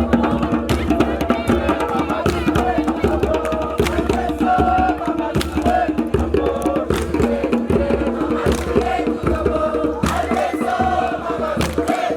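A group of voices singing a chant together over sharp percussive beats.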